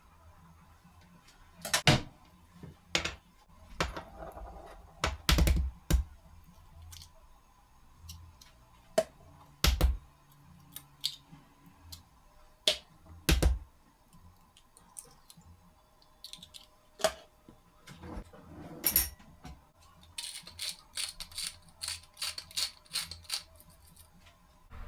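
Scattered knocks and clicks of household objects being handled and set down, with a quick run of light clicks near the end.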